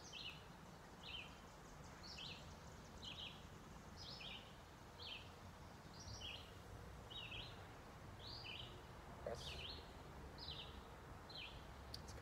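A bird repeating a short, falling chirp about twice a second, steadily and faintly, over quiet outdoor background noise.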